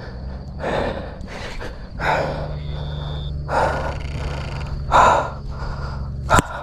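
A man breathing hard in heavy, audible breaths about every second and a half while fighting a big barramundi on rod and reel. A low steady hum runs underneath from about two seconds in, and there is a sharp click near the end.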